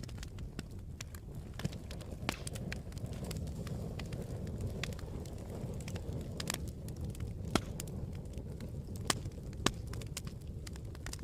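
Campfire burning: a steady low rumble of flames with irregular sharp crackles and pops, a few louder pops late on.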